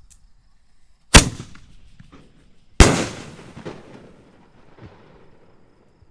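Two loud bangs from Excalibur 4-inch canister shells, about a second and a half apart, each trailing off in an echo, with faint crackle after the second.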